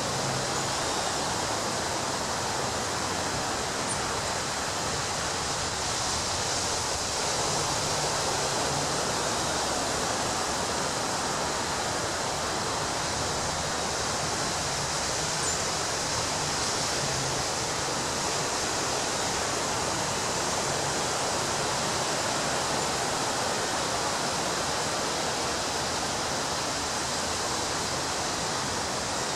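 Ocean surf on a beach, heard as a steady, even roar of breaking waves with no single crash standing out.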